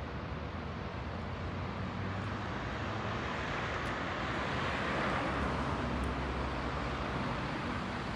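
Street traffic: a motor vehicle passes close by, its engine and tyre noise swelling to a peak about five seconds in and then easing off, over a steady hum of city traffic.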